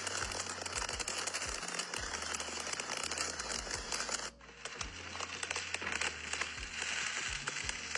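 Fireworks from a burning truckload going off all at once: a dense, continuous crackle of countless small pops, briefly breaking off about four seconds in.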